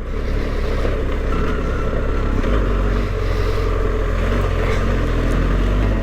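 BMW R 1250 GS Adventure's boxer-twin engine running under load on a rough climb, a steady low rumble that grows louder about two and a half seconds in.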